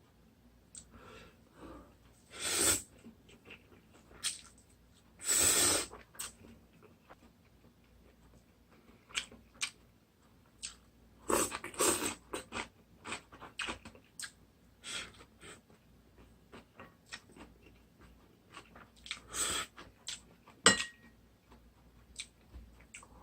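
Close-up eating sounds of instant ramen: noodles slurped in a few noisy bursts, the longest lasting about a second, with wet chewing and mouth clicks between them. Near the end there is one sharp clink with a short ring, like a utensil striking the bowl.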